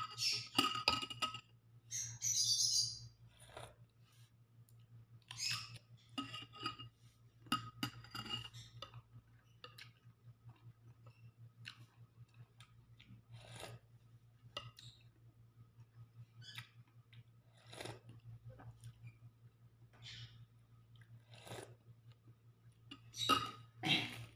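Chewing with crisp crunches from bites of raw cucumber, loudest in a cluster near the end, and now and then a spoon clinking against a ceramic bowl of noodle soup, over a steady low hum.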